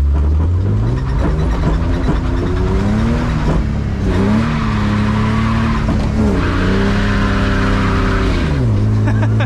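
BMW E36 drift car's engine, heard from inside the cabin, revving up about half a second in and held at high revs with two brief dips, then dropping to a lower steady note near the end. The rear tyres spin and slide on the wet road with a hiss underneath.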